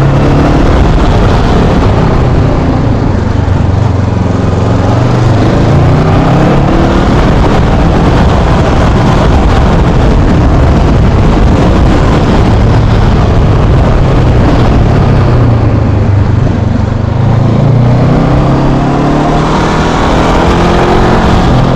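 Honda motorcycle engine running under way, its pitch falling and rising several times as the rider eases off and opens the throttle, dipping at around four seconds and again near sixteen seconds and climbing towards the end.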